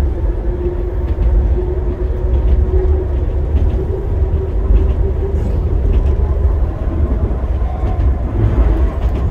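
Enoshima Electric Railway 300 Series electric train running at speed, heard from inside the front car: a steady low rumble of wheels on rail with a constant motor hum and light clicks from the track.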